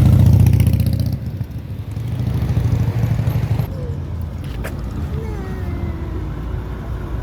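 A car's engine running loud, dropping away after about a second. It swells again for a second or so and then settles to a lower drone. A single sharp click comes near the middle.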